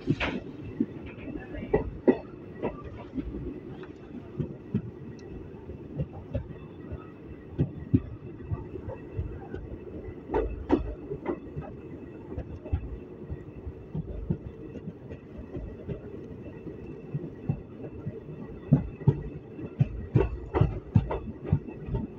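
ICF passenger coach rolling along the track, heard from on board: a steady low rumble with irregular clacks and knocks from the wheels, and a quicker run of clacks near the end.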